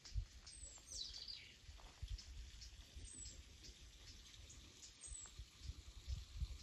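Birds calling faintly: short high chirps that slide downward in pitch, about every two seconds, with one longer call falling steeply about a second in.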